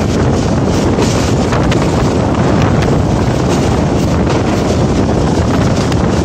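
Wind buffeting the microphone held out of the window of a moving passenger train, over the steady running rumble of the coach on the track.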